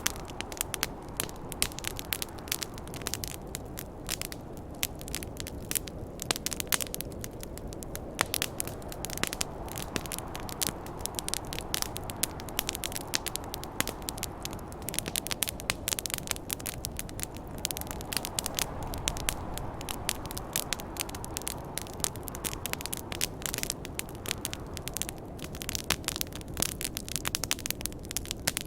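Campfire crackling and popping: dense, irregular snaps of burning wood over a steady low rush of snowstorm wind that swells and eases.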